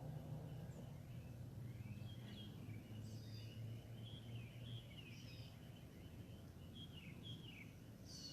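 Birds chirping, a run of short, quick, downward-sliding notes, over a faint steady low hum.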